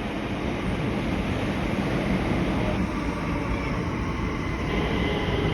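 Electric passenger train running along the line: a steady rumble of wheels and rail noise with a faint whine.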